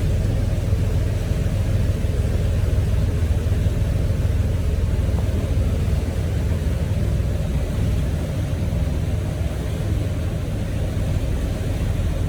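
Motor yacht's engines running steadily under way, a low rumble with an even hiss above it.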